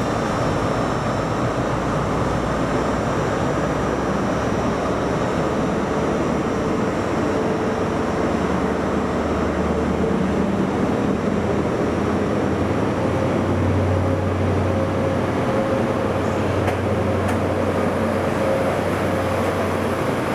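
A train running through a station, a steady rumble with a low hum that grows stronger about two-thirds of the way through.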